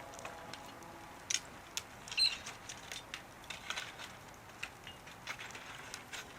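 Wood fire crackling, with irregular small pops and snaps and a couple of louder snaps about a second and two seconds in.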